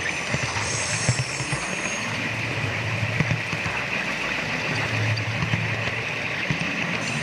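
Model train running along its track: a steady running hum with scattered clicks of wheels over the rails.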